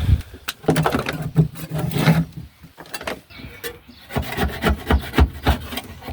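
Irregular scraping and rubbing as old floor covering is worked off a car's metal floor pan, with a few knocks in between.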